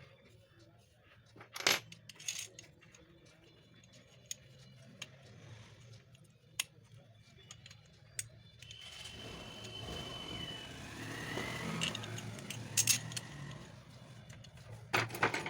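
Sharp metallic clinks and knocks of small metal motor parts being handled, a few seconds apart. About nine seconds in they give way to about five seconds of denser scraping and rubbing noise, then come two louder knocks near the end.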